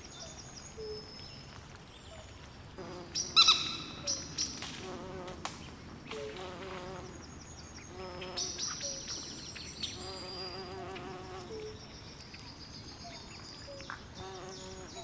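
Swamp ambience at night: a chorus of animal calls, with short trilled calls repeating lower down and high chirps and whistles overlapping them, over a faint steady hiss. One louder call stands out about three and a half seconds in.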